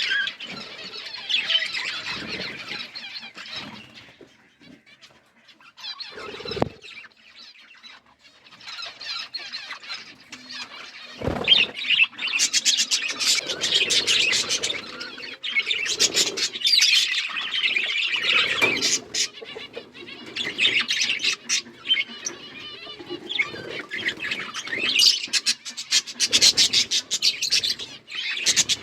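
Budgerigars chattering and warbling together, with fast clicky runs of notes. There are two brief thumps, at about 7 and 11 seconds.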